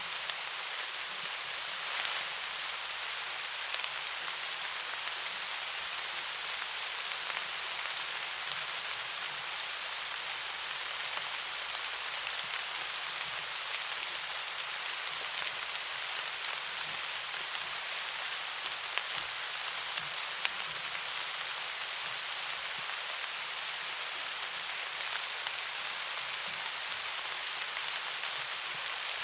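Steady rain falling, an even hiss with scattered faint drop ticks and one sharper click about two seconds in.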